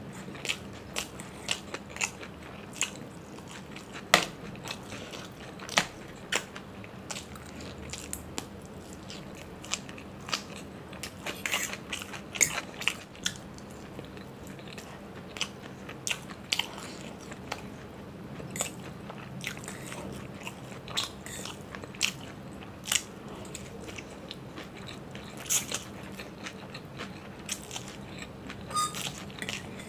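Close-miked eating sounds of a person chewing chow mein noodles, with frequent short, sharp clicks and smacks from the mouth and from the fork on the steel plate.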